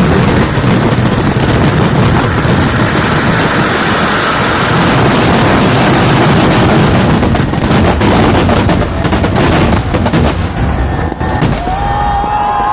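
A temple fireworks barrage: firecrackers going off so densely that the bangs merge into one continuous roar. About two-thirds of the way through it thins into separate rapid cracks that die away.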